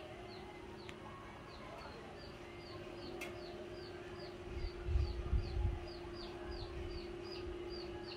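A bird chirping over and over, short high downward chirps at about three a second, over a steady low hum, with a few low bumps about halfway through.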